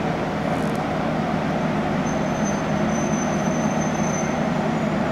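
CP Series 5600 electric locomotive hauling a rake of Corail coaches slowly into a station: a steady rumble of the locomotive and wheels on the rails. A thin high squeal starts about two seconds in and lasts a couple of seconds.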